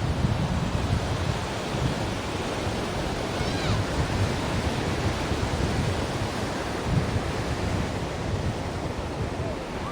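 Ocean surf washing steadily onto a shore, a continuous rushing noise with a low rumble that swells and eases slightly.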